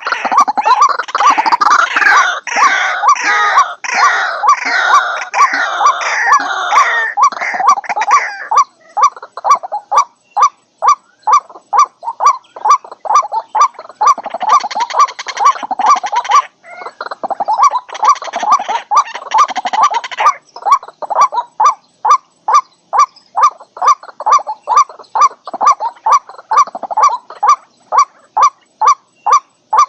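White-breasted waterhens calling. A dense burst of overlapping calls lasts about eight seconds. It gives way to a steady run of single repeated notes, about two a second, broken twice by shorter bursts of the dense calling.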